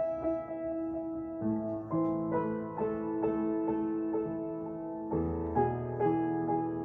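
Background piano music, a gentle run of struck notes with chord changes about a second and a half in and again about five seconds in.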